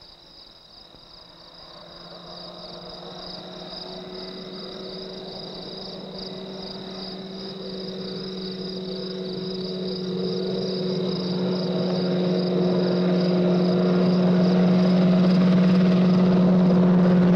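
Toyota Corolla's engine running at a steady pitch as the car drives toward the listener, growing steadily louder, with a thin high whine above it.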